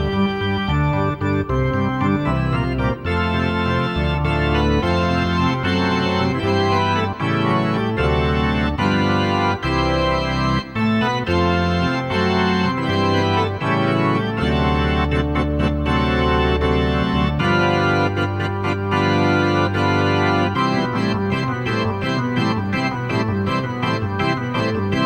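Organ music: sustained chords over a bass line that changes note every second or so.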